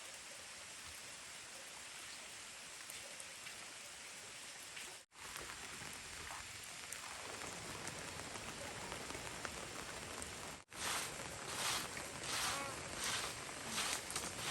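Steady hiss of falling rain, broken by two sudden cuts. After the second cut, about three-quarters of the way in, come louder irregular swishing bursts, two or three a second.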